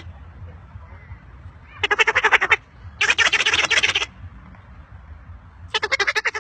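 Parrot giving rapid, rattling laughing-like chatter in three short bursts, while being tickled.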